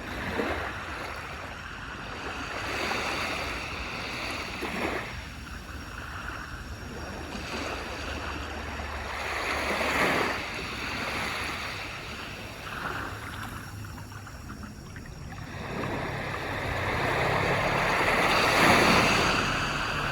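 Waves breaking and washing up onto a beach: repeated swells of surf that rise and fall over a steady low rumble, the biggest wash near the end.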